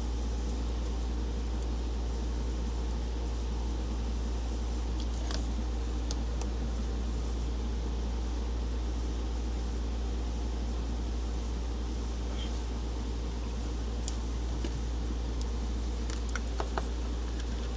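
Steady low hum with a few faint, scattered clicks and taps.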